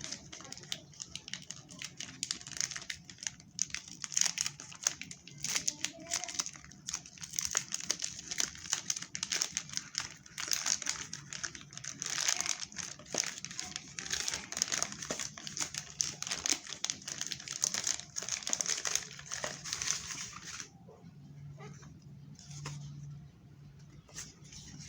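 Screen protector's plastic packaging being handled and crinkled, a dense run of irregular crackles that thins out to a few scattered rustles about twenty seconds in.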